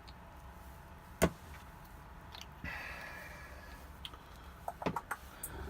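Small handling noises of paint bottles and airbrush: one sharp click about a second in, a brief soft hiss around the middle, and a quick run of small clicks and taps near the end.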